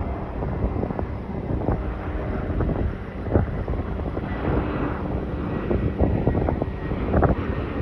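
Strong gusty wind buffeting the microphone, a low rumble broken by repeated sudden thumps.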